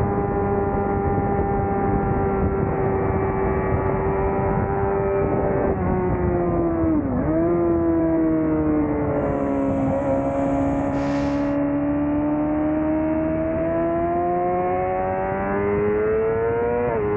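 Suzuki GSX-R600 inline-four engine at high revs on track, with wind rush. The note holds high for about six seconds, then falls sharply as the bike slows for a corner. It runs lower through the turn and climbs steadily again as the rider accelerates out, with a brief dip near the end.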